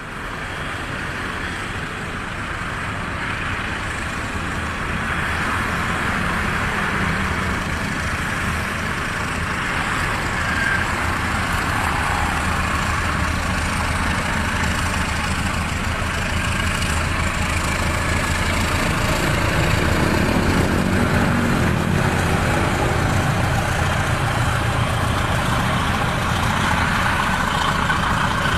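Diesel-hauled passenger train running, a steady rumble of engine and wheels that grows gradually louder.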